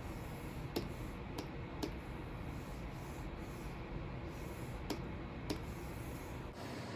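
Stylus nib rubbing and scratching across the glass of a Wacom Cintiq 24 Pro pen display, with about five sharp taps of the pen scattered through. The sound changes abruptly near the end.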